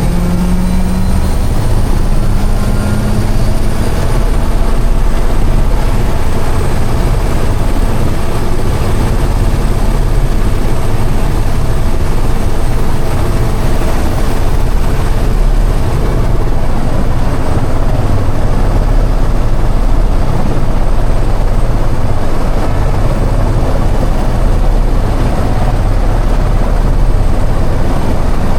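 Helicopter in flight, heard from inside the passenger cabin: loud, steady rotor and engine noise.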